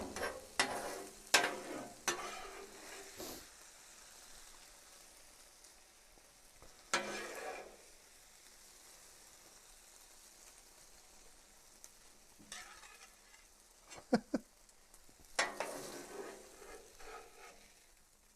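Metal spatula scraping across a flat-top griddle in short strokes while food is served off it, over a faint steady sizzle from the hot griddle.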